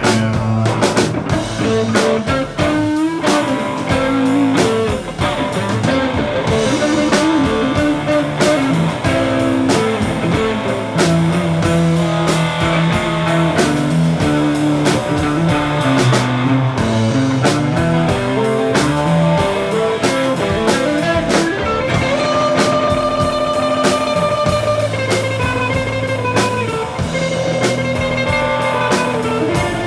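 Live blues-rock band playing an instrumental break between verses: a lead guitar solo over a drum kit, with a long held, bent note about 22 seconds in.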